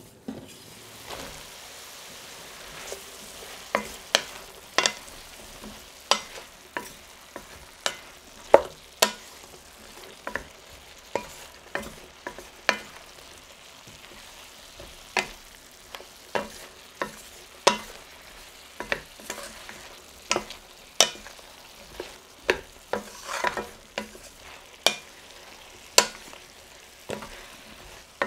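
Sliced shiitake and chestnut mushrooms with onion sizzling in a stainless steel pot. A wooden spatula stirs them, knocking and scraping against the pot in sharp, irregular clacks about once or twice a second over a steady frying hiss.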